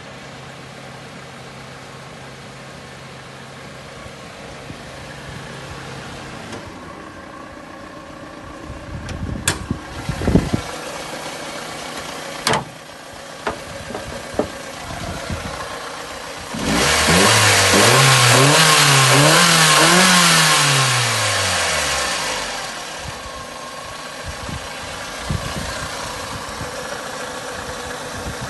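Nissan March K11's small four-cylinder petrol engine idling, with a few sharp knocks in the middle; then, over about five seconds, it is revved up and down several times before dropping back to idle.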